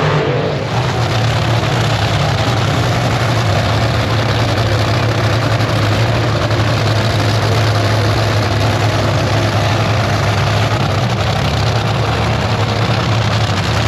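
A heavy engine idling steadily, a low even hum that holds without revving.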